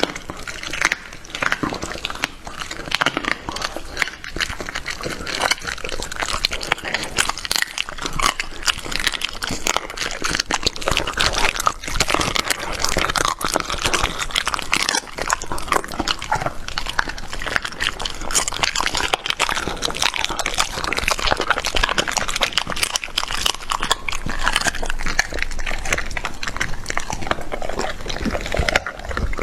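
A dog chewing raw meat close up: a dense, continuous run of smacking, biting and crunching sounds.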